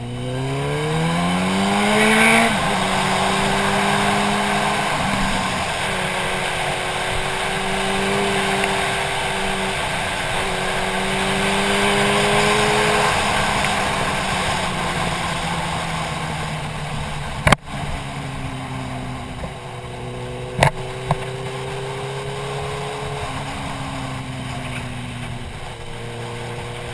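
Motorcycle engine accelerating for about two seconds, dropping in pitch at a gear change, then cruising steadily before easing off in the second half, with wind rushing over a helmet-mounted camera. Two sharp clicks in the second half.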